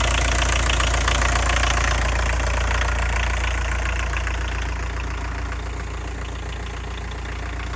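1983 VW Quantum's 1.6-litre four-cylinder turbo diesel idling steadily, fading slightly over the last few seconds.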